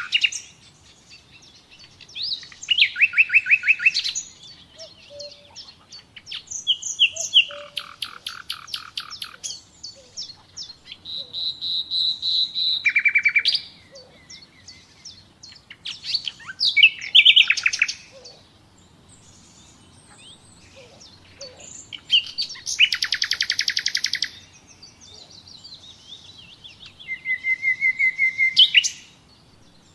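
Common nightingale singing in separate phrases of rapid repeated notes and trills, each a second or two long with pauses between. One phrase about halfway through opens with a held whistle, and another near the end opens with a lower held whistle.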